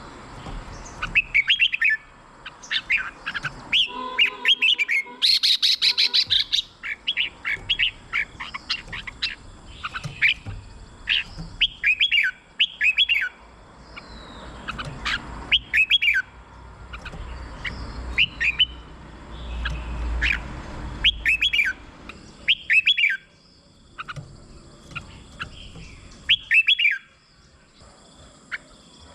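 Red-whiskered bulbul singing: short, sweeping whistled phrases repeated about every second, with a brief harsh chatter about five seconds in.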